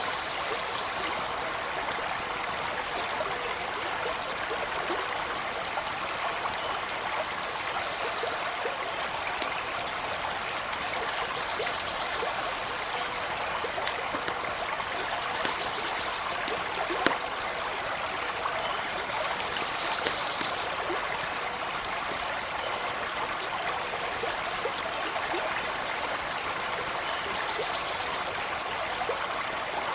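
A stream running and babbling steadily, with scattered sharp crackles from a campfire, the loudest about 9 s, 17 s and 20 s in.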